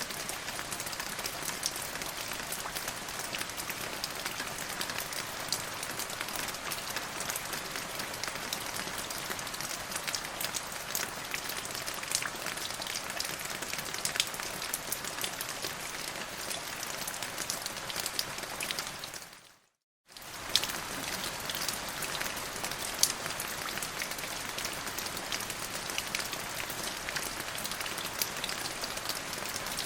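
Steady rain falling on a surface, a dense patter of individual drops. About two-thirds of the way through it fades out to silence for a moment, then comes straight back.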